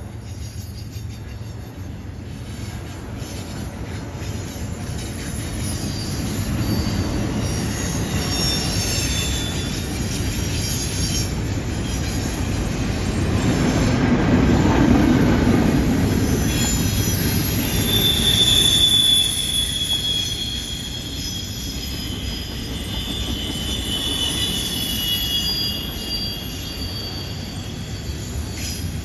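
CN freight train rolling through a curve: a steady rumble that swells to its loudest about halfway through, with high-pitched wheel squeal from the curve joining near the middle.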